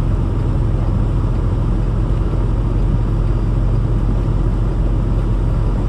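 Peterbilt 579 semi-truck's diesel engine running steadily, heard from inside the cab as a low, even drone.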